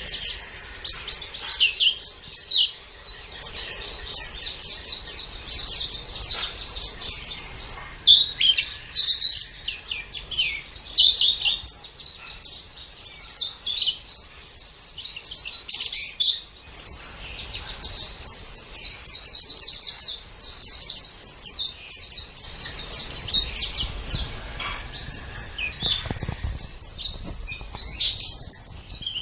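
White-eye (pleci) singing: long runs of quick, high twittering notes, with only brief pauses.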